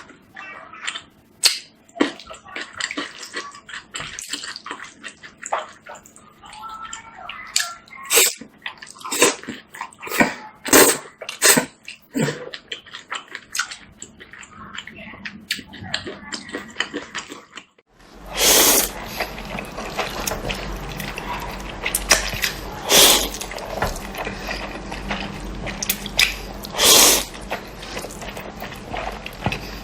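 Close-miked eating of Indomie instant noodles: a run of short, wet slurping and chewing sounds. From about eighteen seconds in, a few longer, louder slurps play over a steady low hum.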